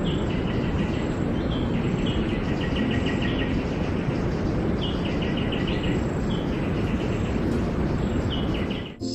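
Tropical rainforest ambience: a steady rushing noise with a small bird's high chirping call repeated every second or two, each call stepping down into a quick run of chirps.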